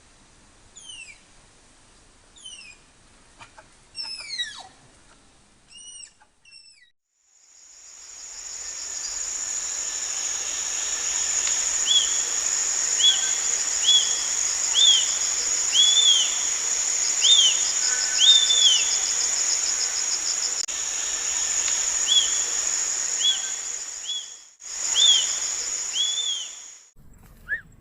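Birds calling. For the first few seconds there are quick high whistles, each falling in pitch. After that come short chirps, about one a second, over a steady high buzzing drone from insects.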